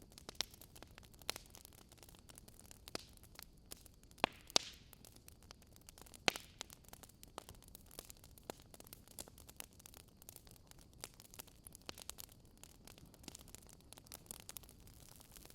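Wood fire crackling: irregular sharp pops and snaps, several a second, the loudest a few seconds in, over a faint steady background hiss.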